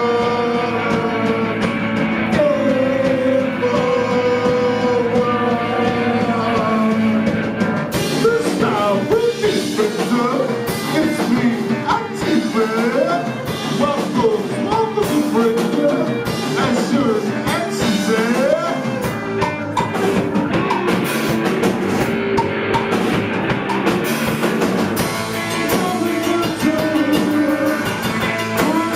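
Rock band playing live: electric guitar and drums, with held guitar chords at first and a voice singing over the band from about eight seconds in.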